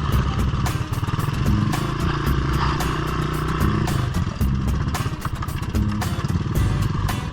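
Small single-cylinder off-road engine running while being ridden, its pitch shifting up and down with the throttle.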